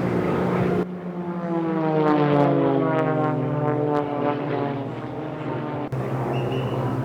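Propeller airplane flying past, its engine and propeller drone sliding steadily down in pitch as it goes by. The sound cuts in abruptly about a second in and cuts away again about a second before the end, to a steadier, lower sound.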